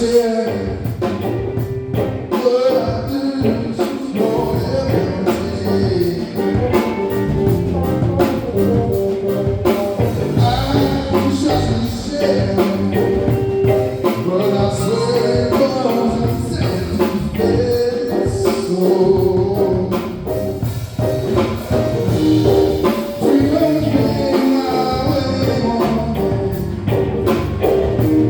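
Live band music with singing over drums and bass.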